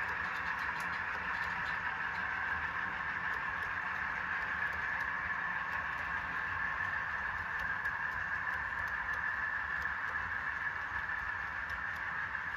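ESU LokSound sound decoders in HO scale Conrail C30-7A models playing the running sound of a 12-cylinder GE prime mover through small speakers, steady throughout, with faint ticking over it.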